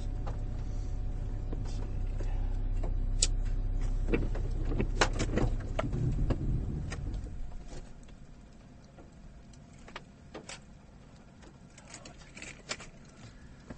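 Low, steady rumble of a car, with scattered clicks and knocks; the rumble fades away about seven seconds in, leaving only faint background noise.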